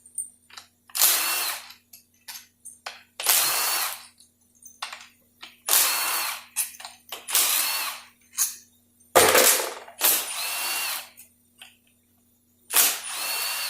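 Cordless power driver with a 7/16 socket spinning out the 11 mm valve-body bolts of a 46RE transmission, in about seven short whirring bursts with pauses between.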